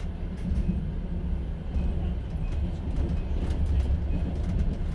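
Passenger train carriage running along the track, heard from inside the car: a steady low rumble of wheels on rails with faint scattered ticks and rattles.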